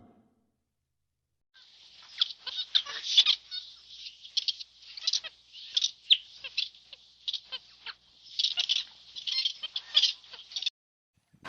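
Bird calls: a rapid series of short, high chirps that starts about a second and a half in and stops shortly before the end.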